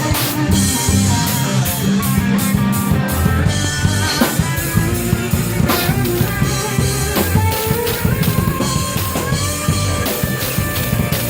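Live rock band playing loudly: drum kit and bass, with an electric guitar lead line that bends and slides in pitch.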